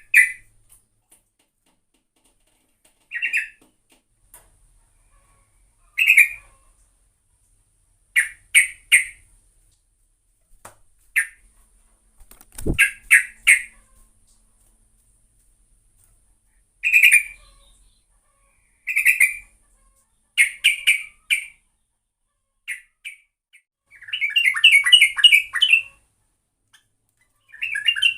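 Yellow-vented bulbul (trucuk) calling in short bubbly phrases every one to three seconds, then breaking into longer rapid runs of notes near the end. A brief low thump sounds about halfway through.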